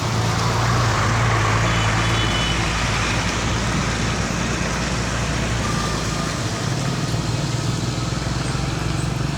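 A heavy vehicle's engine running close by, steady and low, over road traffic noise. The noise swells from about half a second in and eases again after about two seconds.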